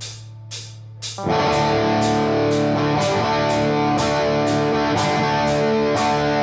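A live rock band starts a song. Sharp percussion strikes keep time at about two a second, then electric guitars and the full band come in with steady strummed chords about a second in.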